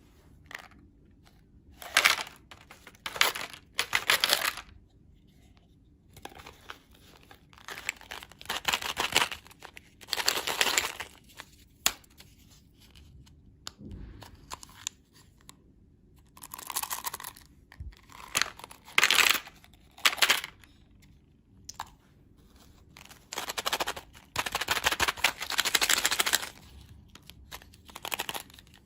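Candy packaging being crinkled and torn open, in irregular bursts of a second or two with short quiet gaps between.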